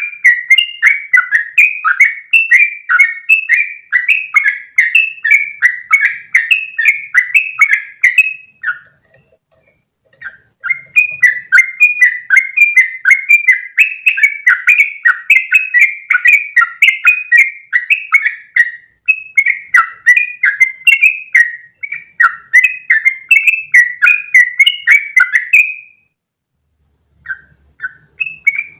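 Yellow-vented bulbul (trucukan) singing in long, rapid runs of short chirping notes at about three a second. The runs break off twice, for about two seconds each time: once about a third of the way in and once near the end.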